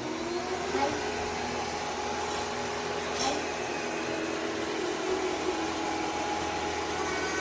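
A motor running steadily with a constant whirring hiss and a few fixed humming tones, plus a short rising tone near the start.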